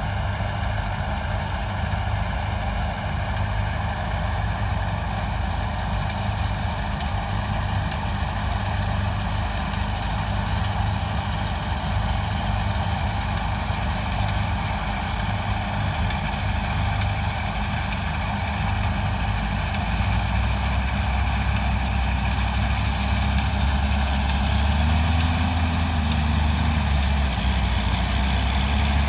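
Large farm diesel engine running steadily with a constant drone. About two-thirds of the way in it grows a little louder and its note shifts, wavering toward the end.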